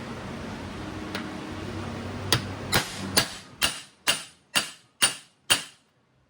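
Eight sharp hammer blows on metal, about two a second, each with a short ring, as in driving a scooter's swingarm bearing. A steady hiss fills the first two seconds.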